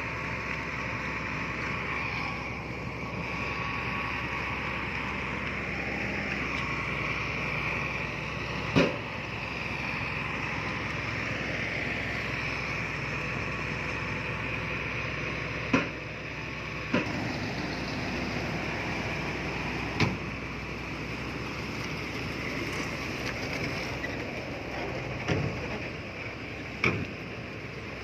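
Heavy earthmoving machinery running steadily, with about six sharp metallic clanks scattered through it, the loudest about nine seconds in.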